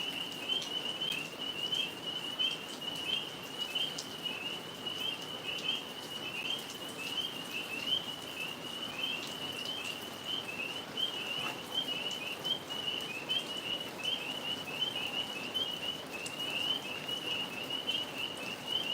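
A chorus of tree frogs calling: many short, high chirps overlapping into a continuous, steady chorus.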